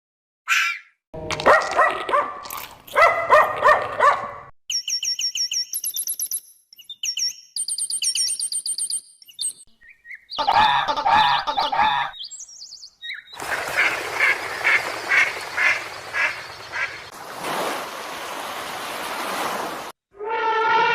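A run of different animal calls, one clip after another, birds among them. Loud pitched calls come in the first few seconds, then high thin chirping, then a long stretch of rapid pulsed calls over a hiss.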